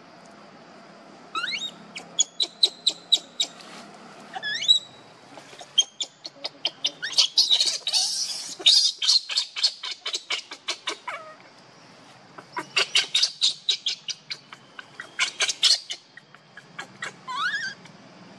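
A bird calling in bouts: quick rising whistled notes, each followed by a fast run of sharp, evenly repeated notes, the longest run in the middle.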